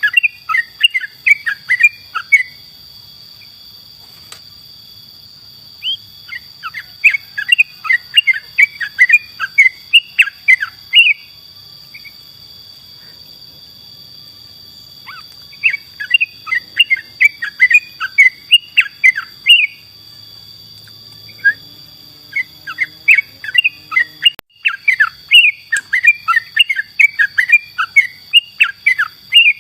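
Yellow-vented bulbul (trucukan) singing: phrases of rapid chirping notes lasting a few seconds each, separated by short pauses, with a long unbroken phrase near the end. A steady high-pitched tone runs underneath.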